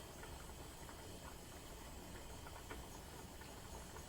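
Low, steady room noise with a few faint, light clicks.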